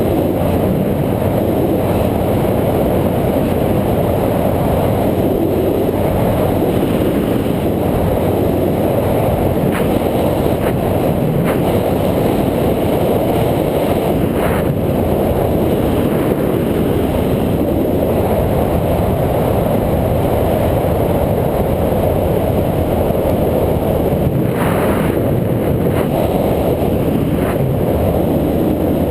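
Steady wind rush and road rumble on an action camera's microphone during a bike ride, with a few brief knocks from bumps.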